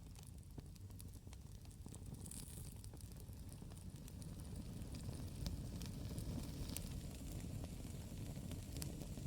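Campfire crackling: scattered sharp pops and snaps of burning wood over a steady low rumble of the flames.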